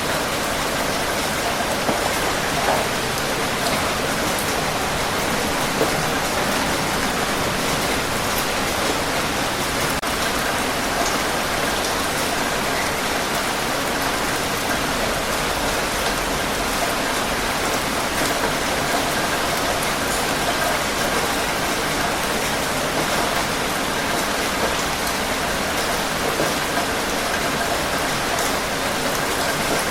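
Steady rain falling on a surface, an even hiss with scattered drops ticking through it.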